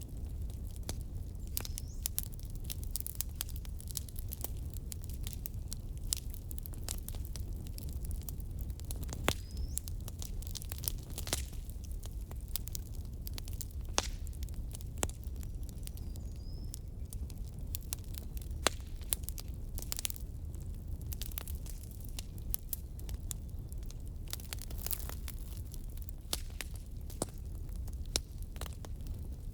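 Firewood burning: steady crackling with irregular sharp pops over a low rumble of the flames, and now and then a brief high hiss from the burning wood.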